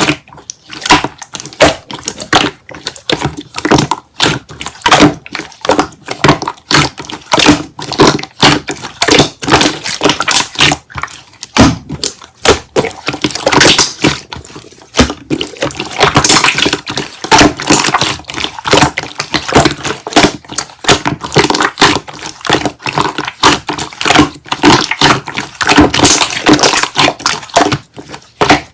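Slime being squeezed and poked by hand, making a dense, irregular run of clicks and pops.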